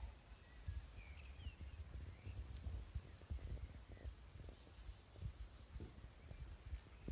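Faint songbird calls over a low rumble on the microphone; about four seconds in a bird gives three quick falling high notes, then a rapid run of high repeated notes lasting about two seconds.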